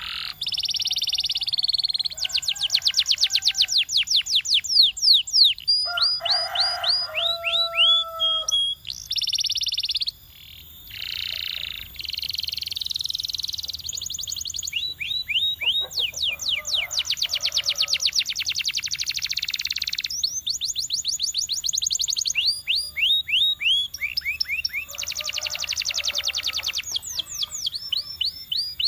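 Canary singing a long, high-pitched song made of fast trills of repeated notes. Each phrase runs a second or two before switching to a new note type, with a short break about ten seconds in.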